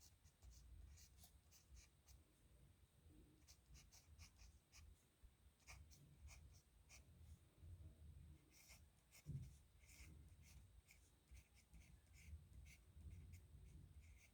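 Steel nib pen scratching across paper in many short, irregular strokes: handwriting at real-time speed.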